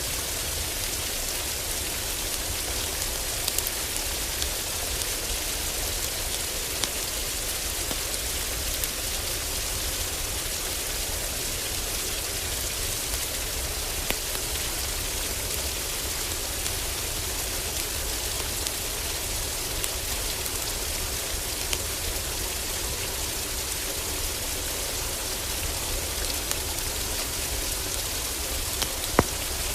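Heavy rain drumming steadily on a roof, with a steady low rumble underneath. Scattered sharp crackles and pops from a wood fire sound over it, the loudest one near the end.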